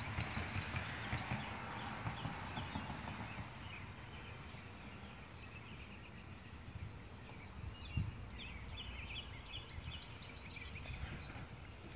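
Small birds calling: a high, fast, even trill lasting about two seconds near the start, then short repeated chirps in the second half, over a low rumble of wind or handling on the microphone.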